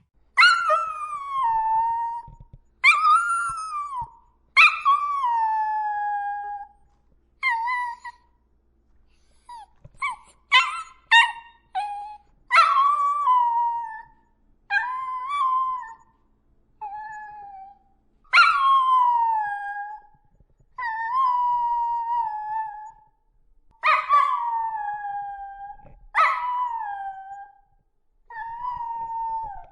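A dog howling in a string of short howls, a dozen or so, each starting high and sliding down in pitch. About ten seconds in there is a quick run of brief yips.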